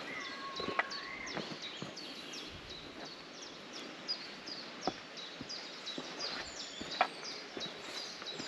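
Small birds singing in garden woodland: rapid, repeated short high chirps throughout, with a few clearer whistled notes near the start. A few sharp clicks stand out here and there.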